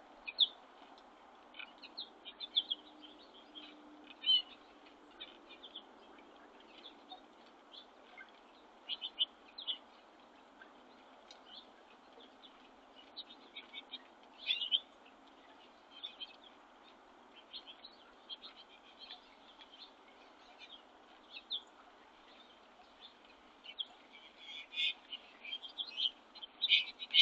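Small songbirds at a winter feeder chirping and calling in short, high notes, scattered all through and busier and louder near the end.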